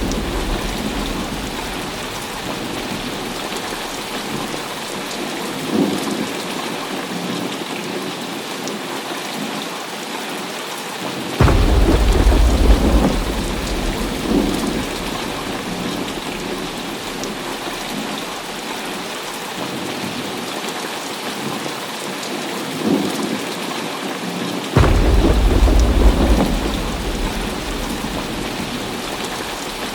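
Heavy rain falling steadily, broken twice by a sudden clap of thunder, about eleven seconds in and again near twenty-five seconds in, each rumbling low for a couple of seconds before fading back into the rain.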